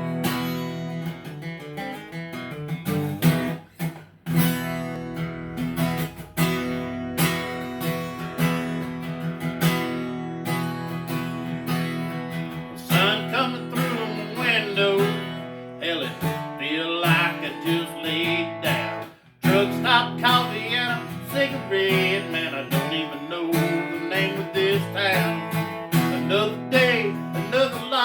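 Acoustic guitar strumming the chords of a country song, with two brief breaks in the playing; from about halfway a melody line with bending pitch comes in over the guitar.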